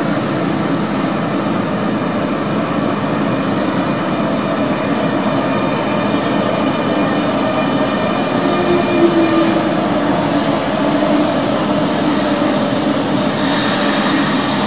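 Renfe Cercanías electric commuter train pulling into an underground station: a steady rumble of wheels and traction motors. A brief squeal comes about nine seconds in.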